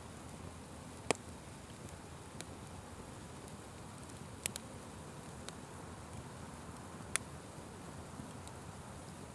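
Wood fire burning with a low steady hiss and soft crackle, broken by a few sharp pops, the loudest about a second in and a quick double pop midway.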